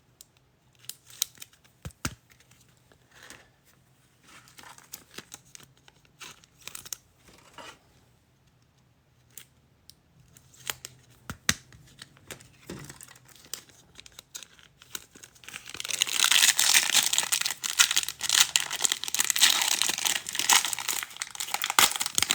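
Trading-card pack wrapper torn open and crinkled, loud and dense for the last several seconds, after a stretch of soft clicks and rustles as cards and packs are handled.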